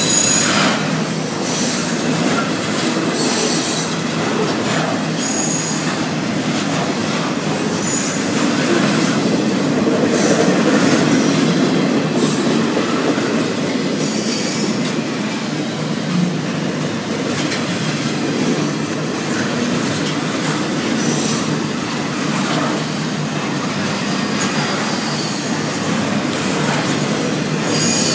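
CSX double-stack intermodal freight train's well cars rolling past: a steady rumble of steel wheels on rail, with brief high-pitched wheel squeals every few seconds.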